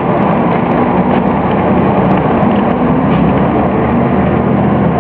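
Scania OmniCity bus's diesel engine running steadily.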